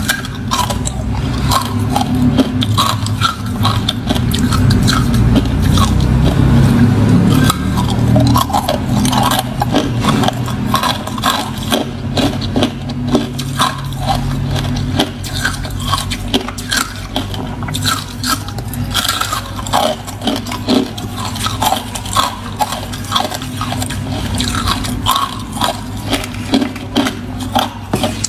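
Close-up chewing of crunchy shaped ice: a dense, irregular run of crackling crunches, with a heavier low rumble from the mouth in the first several seconds.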